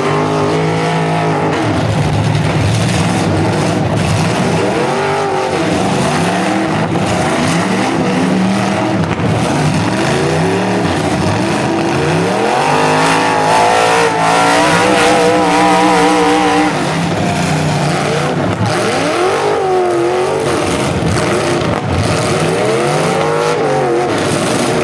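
Several full-size demolition derby cars' engines revving up and down together, pitches rising and falling as they accelerate and back off. The revving is loudest and most wavering in the middle.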